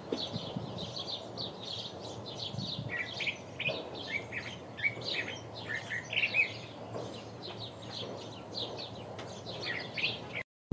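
Curve-billed thrasher singing: a long, unbroken run of short, varied phrases that jump between higher and lower notes.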